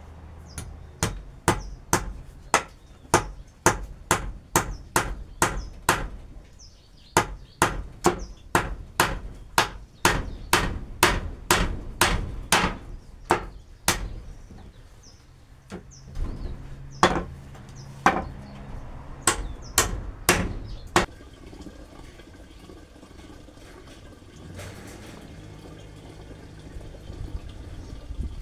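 Hammer blows, about two a second, in three runs with short pauses between, stopping about three quarters of the way through; the sound of hammering during a repair on the sheep fold wall. Birds chirp faintly.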